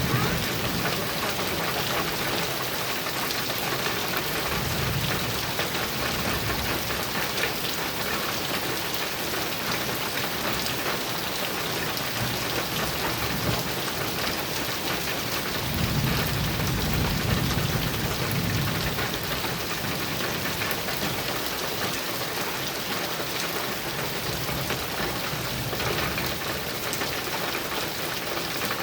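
Heavy rain drumming steadily on a metal roof, with low rolls of thunder rumbling underneath, the longest a little past halfway.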